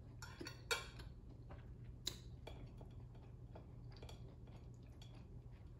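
Close-miked chewing: soft wet mouth clicks and small ticks throughout, with two sharper clicks, one under a second in and one about two seconds in.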